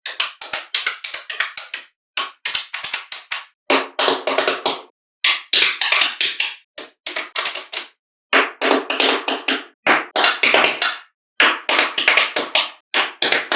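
Small magnetic balls clicking and snapping together in quick rattling runs, several clicks a second, broken by short pauses.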